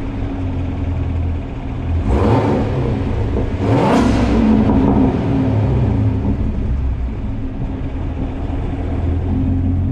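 Chevrolet Camaro ZL1's supercharged V8 idling, with two short blips of the throttle about two and four seconds in, the exhaust echoing in a parking garage.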